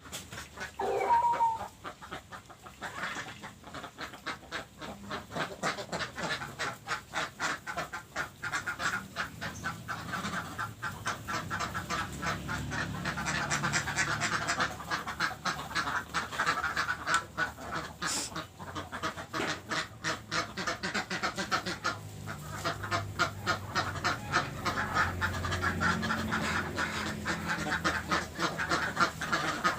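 A flock of waterfowl calling continuously in rapid, dense quacks. About a second in there is one brief, louder call that rises in pitch, the unexplained strange sound.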